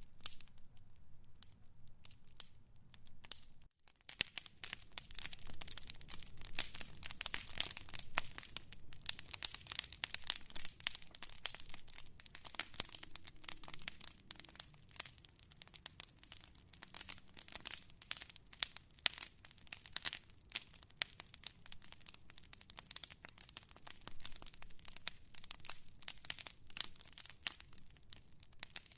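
Wood fire crackling with dense, irregular pops and snaps, briefly dropping out about four seconds in.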